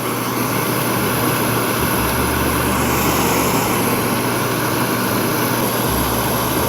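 Portable camp stove burner running steadily, heating water in a kettle toward the boil.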